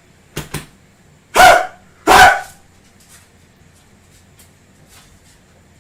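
Two loud barks, about three-quarters of a second apart, after two short clicks.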